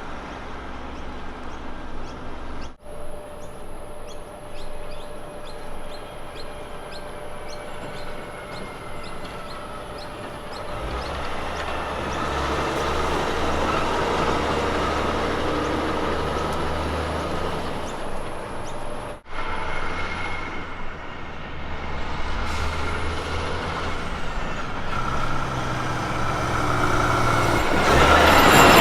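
Road-train trucks' heavy diesel engines running, heard in three short clips; the engine sound builds in the middle and grows loudest near the end as a truck draws close.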